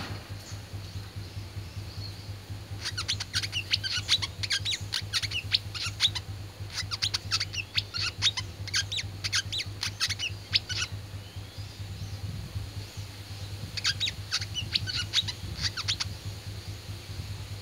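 Wiceh songbird calling in fast runs of sharp, high chirps: one long bout from about three seconds in to about eleven, and a shorter one near the end, over a steady low hum.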